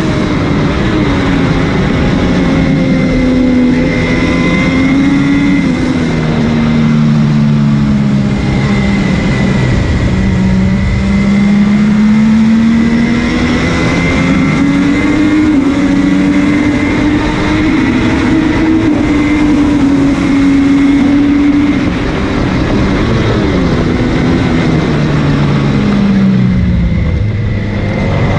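MV Agusta F3's inline three-cylinder engine at racing speed, its pitch climbing under acceleration and dropping back through gear changes and braking several times over.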